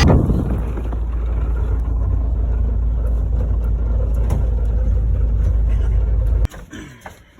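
Car driving, a steady low rumble of engine and road noise that cuts off suddenly about six and a half seconds in.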